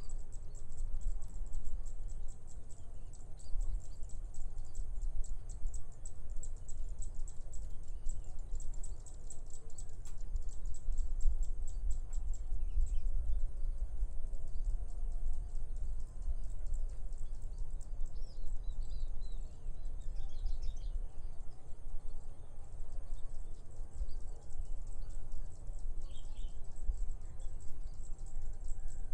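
Rice-field ambience: insects keep up a steady high shrill of rapid pulses, with a few bird chirps about two-thirds of the way through and again near the end, over a gusty low wind rumble.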